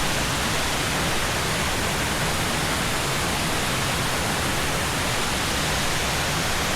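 Steady rush of water falling over the limestone tiers of a waterfall, an even, unbroken roar.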